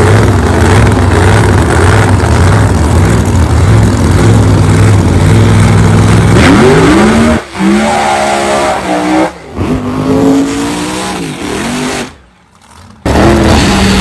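Car engine running loud and steady, then revving with rising and falling pitch from about six seconds in, breaking off sharply a few times.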